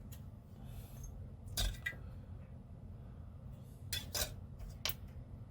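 Light clicks and clinks of small hard parts being handled on a workbench: one about one and a half seconds in, two close together near four seconds, and one more about a second later, over a steady low hum.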